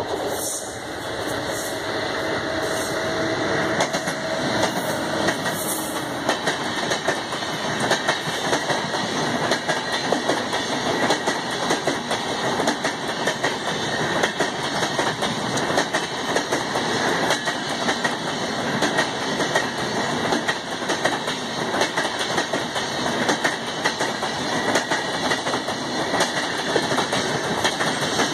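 An Indian Railways Rajdhani Express passing close by: the sound swells over the first few seconds as the WAP-7 electric locomotive comes past, then a long rake of LHB coaches rolls by with continuous, dense wheel clatter and clicking over the rail joints.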